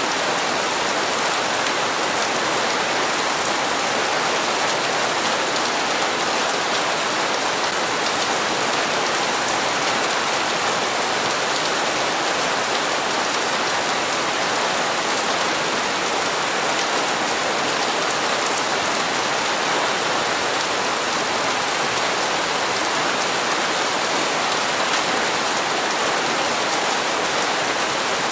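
Steady rain falling on hard surfaces, a continuous even hiss with no letup or distinct drops standing out.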